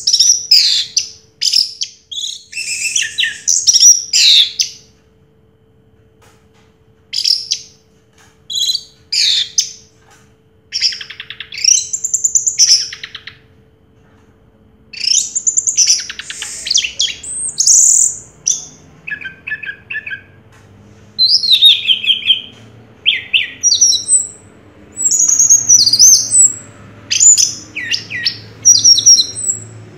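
Orange-headed thrush singing loud, varied phrases of whistles and rapid trills, broken by pauses of a second or two.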